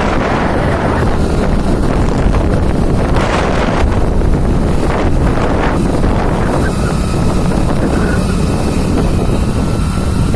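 Heavy wind buffeting the microphone of a moving motorbike, with the engine running steadily underneath.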